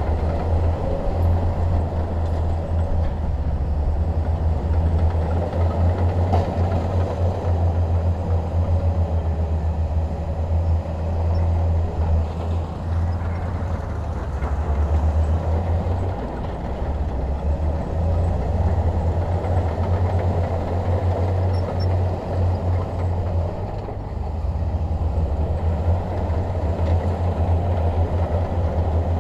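Bulldozer's diesel engine running with a steady low drone, easing off briefly twice.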